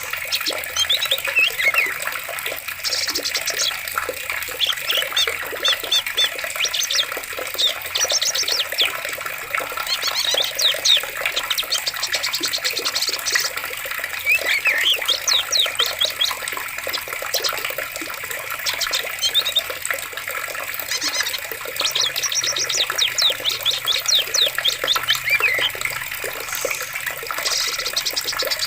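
Steady running water with many birds chirping and trilling over it, short calls and rapid note runs following one another.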